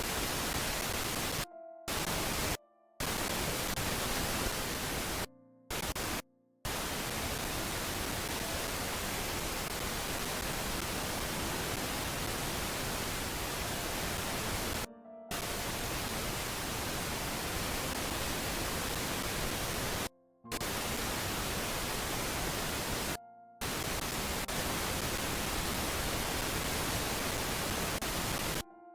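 Steady loud hiss of static across the whole range, cutting out abruptly for a fraction of a second about eight times. In each gap a faint steady hum-like tone is left.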